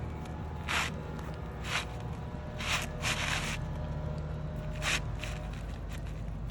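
Shoes scuffing on an asphalt-shingle roof: about five short gritty steps, roughly a second apart, over a steady low hum.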